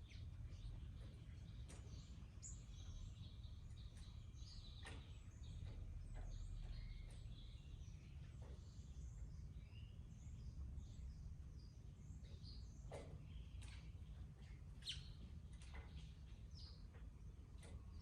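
Several small birds chirping and calling on and off over a faint steady low rumble.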